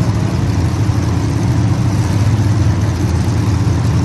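Engines of a field of small race cars running steadily as the feature race goes on, a dense, continuous engine hum with no single car standing out.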